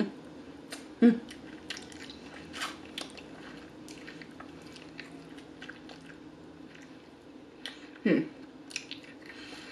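Close-up chewing of cheese fries: a run of small wet mouth clicks and smacks, with a short vocal sound about a second in and another near the end.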